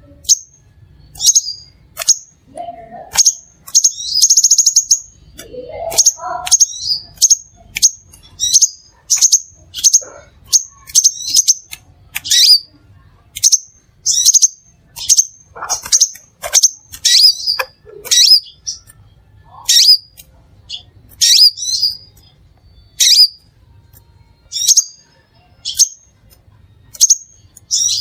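Crimson sunbird giving a rapid run of short, sharp, high chirps, about one or two a second. A brief buzzy trill comes about four seconds in, and a few lower gliding notes are scattered among the chirps.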